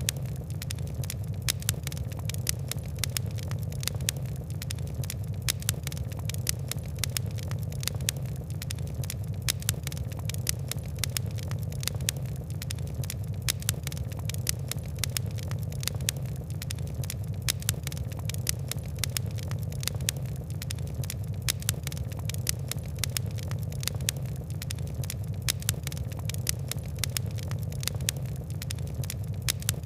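Wood and coal fire crackling: many quick, irregular ticks and pops over a steady low rumble of burning.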